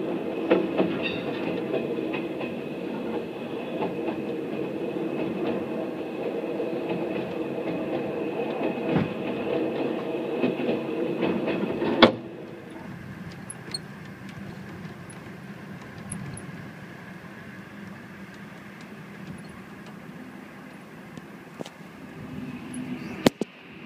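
Passenger car of a China Railways express train running, heard inside a soft-sleeper compartment: a dense rumble and rattle with scattered clicks. About halfway through, a sharp click comes and the noise drops to a quieter, steadier hum. Another sharp click comes near the end.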